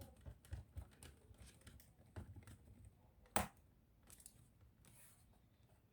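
Scattered small clicks and handling noises, with one sharper click about three and a half seconds in.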